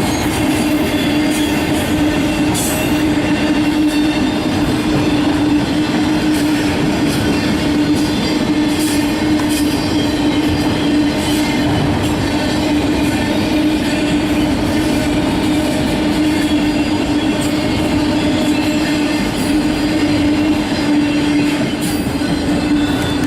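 Freight train rolling past at close range: steady rumble of the wheels on the rails with scattered clacks, over a strong steady tone.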